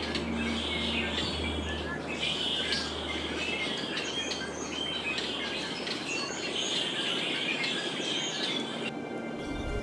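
Many songbirds chirping in quick, overlapping calls over a steady background hiss of outdoor ambience.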